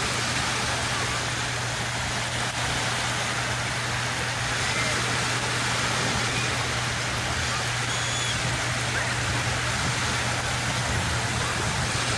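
Steady rushing of sea surf washing onto the shore, with a low steady hum underneath.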